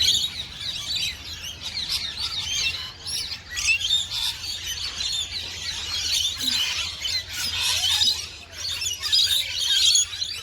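A dense chorus of many aviary birds chirping and chattering at once, with short calls overlapping continuously.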